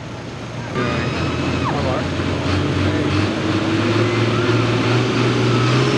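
Farm pulling tractor's diesel engine coming in about a second in and running steadily under load, its pitch slowly climbing, with a faint high whine rising near the end.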